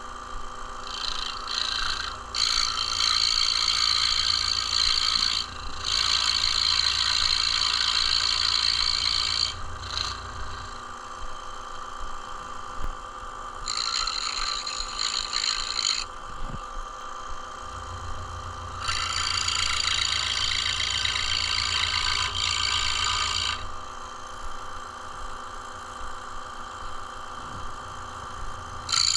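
Scroll saw running steadily, its reciprocating blade cutting dovetail tails in wood in four stretches of a few seconds each, louder and hissier while cutting, with the saw running on its own in between.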